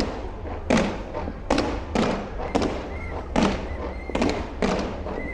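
Aerial fireworks bursting: about eight loud bangs, irregularly spaced roughly half a second to a second apart.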